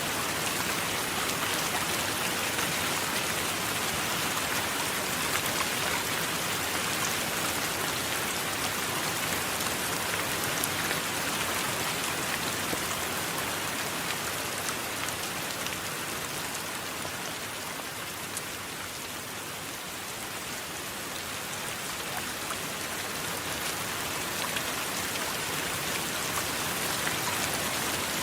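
Steady rain falling, easing a little about two-thirds of the way through and building back up near the end.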